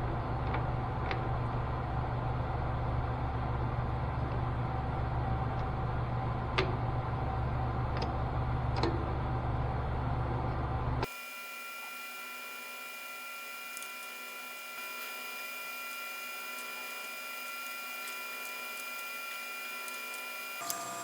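Metal lathe running while turning down a steel shaft coupler into washers: a steady motor hum with a few small sharp clicks. About eleven seconds in, the sound changes abruptly to a quieter, higher steady whine with several pitches.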